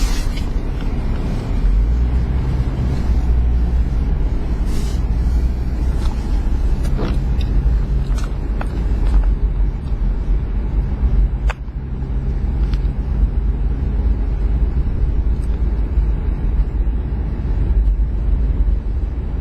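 Motor vehicle engine running with a steady low rumble, with a few faint clicks and knocks over it and a short dip about halfway through.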